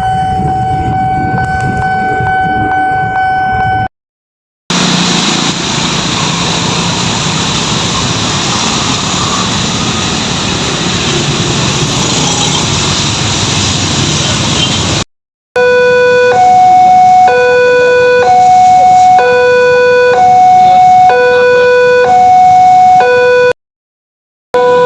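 A train horn sounds one long steady note, then a train runs past with loud, even rumble and rail noise. Then an Indonesian level-crossing warning alarm sounds, an electronic signal alternating between a higher and a lower tone about every 0.7 seconds. Brief cuts break between the parts.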